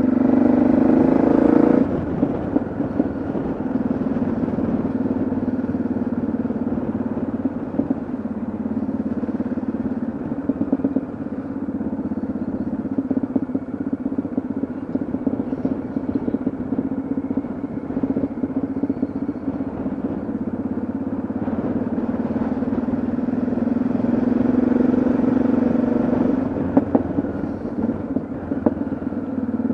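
Yamaha XT660Z Ténéré's single-cylinder engine running under way, louder for the first couple of seconds, then dropping back as the throttle eases and slowly building again later on.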